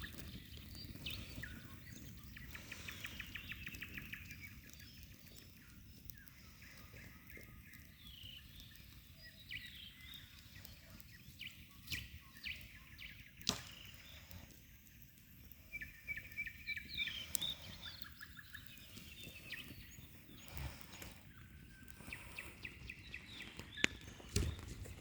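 Several songbirds singing and trilling in spring, over faint outdoor background noise, with a few sharp clicks scattered through.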